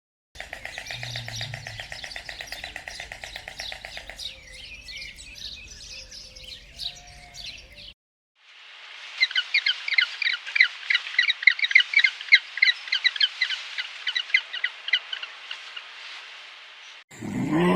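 Birds chirping in two separate stretches: first a fast, evenly repeating trill that stops abruptly about eight seconds in, then after a short silence a busier run of quick, high chirps.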